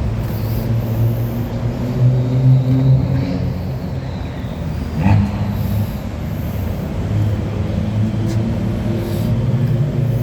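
Toyota Wish's 1.8-litre four-cylinder engine running steadily with a low even hum, with a brief knock about halfway through.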